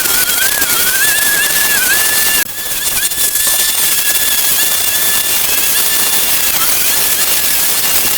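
A machine's steady high-pitched whine over a loud hiss, broken briefly about two and a half seconds in.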